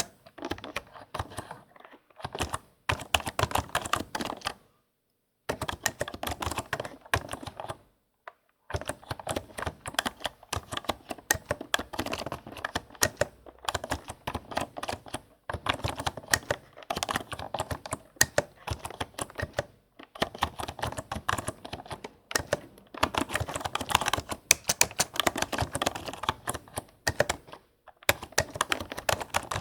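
Fast typing on a computer keyboard, close up: quick runs of crisp key clicks broken by brief pauses of about a second, several times.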